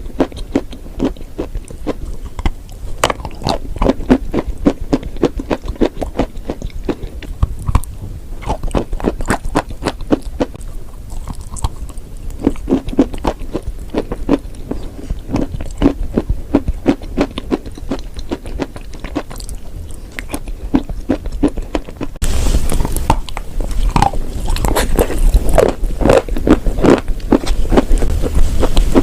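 Close-miked biting and chewing of dry chalk and clay: dense, rapid crunching and crackling. About two-thirds of the way through, the background hiss rises and the crunches get louder.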